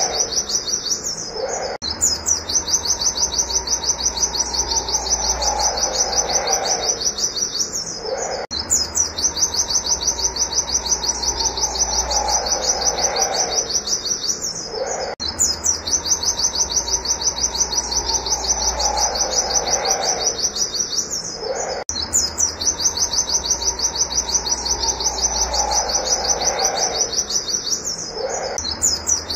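Pleci (white-eye) singing rapid, high-pitched 'wit wit' notes in long fast runs. A lower falling call runs beneath them, and the whole phrase repeats in a cycle about every six to seven seconds.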